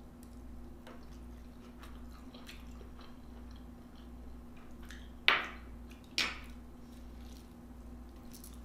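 Close-up eating sounds: a person chewing with soft wet mouth noises, and two louder sharp bites or clacks about five and six seconds in, over a faint steady hum.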